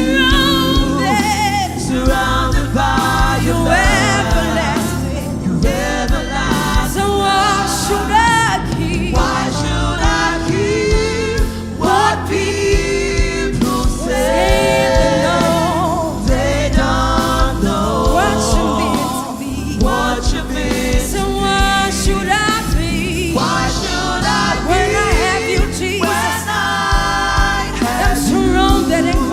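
Gospel praise-and-worship music: several voices singing over a band with a steady beat.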